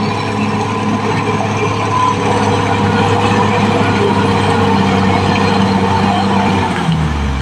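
Caterpillar D6R XL crawler dozer's diesel engine running steadily under the rattle of its steel tracks; near the end the engine note drops lower.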